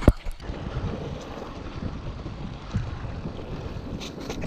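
Wind rushing over the microphone with the rumble and rattle of a mountain bike rolling over a dirt trail, and a sharp knock right at the start.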